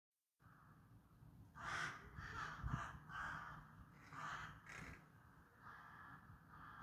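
Crows cawing: a series of about eight harsh caws, each around a third of a second long, starting about a second and a half in.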